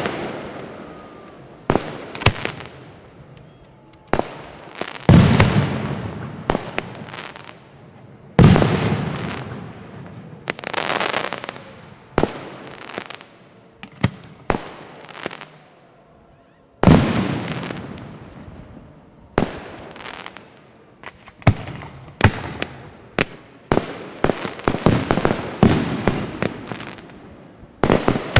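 Aerial fireworks shells bursting one after another, each a sharp bang that trails off over a second or two, with a few heavier booms among them. There is a short lull about halfway, then quick clusters of pops and crackle near the end.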